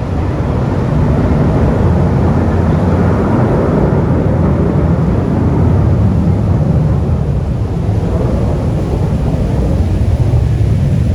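Aircraft flying over: a loud, steady rumble that builds over the first couple of seconds and holds.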